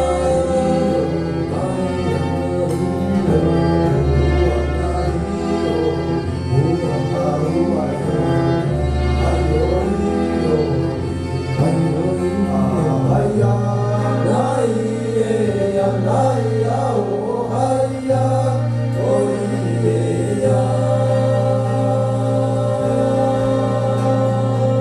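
A live band playing a song with singing over sustained bass notes; the bass line shifts to a new, steady note about halfway through.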